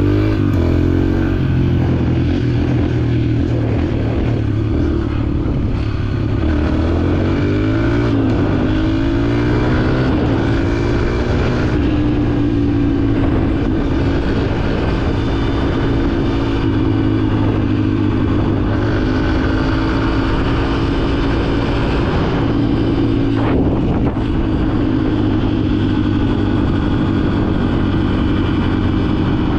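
Dirt bike engine running as the bike is ridden, the revs rising and falling several times in the first dozen seconds, then holding steadier.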